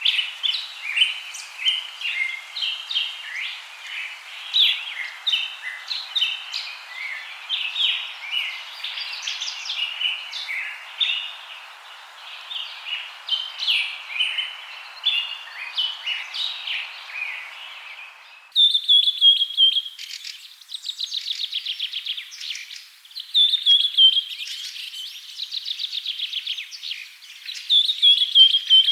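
Songbirds chirping and singing, many short notes overlapping over a steady background hiss. About eighteen seconds in, the sound switches abruptly to rapid trilled, slightly falling phrases repeated every few seconds.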